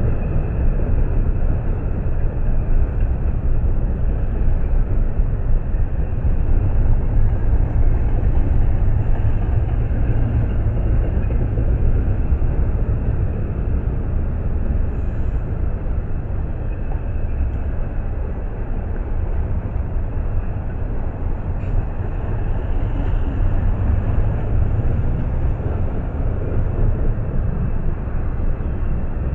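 Double-stack intermodal freight train rolling slowly past, a steady low rumble from its well cars.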